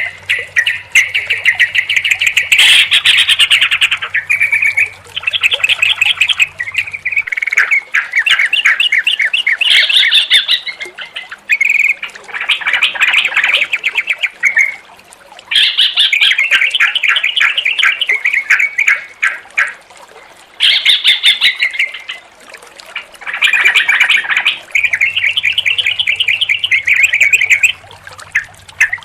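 Yellow-vented bulbuls (trucukan) singing: a run of quick, bubbling, chattering phrases, one after another with short pauses between them.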